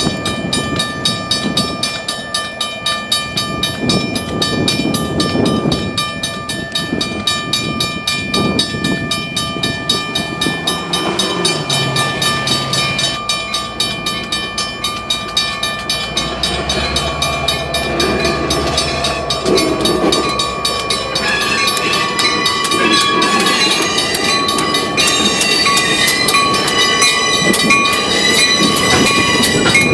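A train rolling past, its wheels clicking steadily over the rail joints, with several steady high tones ringing above the clatter. A deeper rumble swells for several seconds past the middle.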